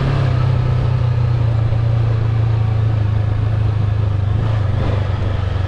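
Motorbike engine running steadily while riding, a constant low hum that holds one pitch with road and wind noise above it.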